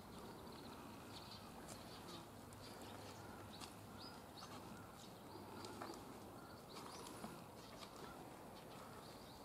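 Faint outdoor ambience with small birds chirping: short high chirps scattered through, a few each second, over a low steady background hum.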